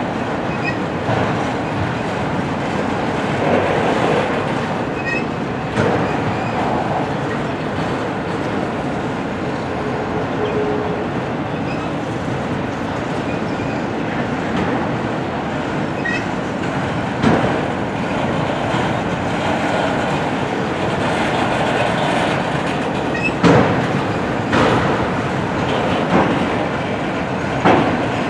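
Railroad cars of a passing train rolling by: a steady rumble, with irregular clacks and knocks from the wheels over the rail joints.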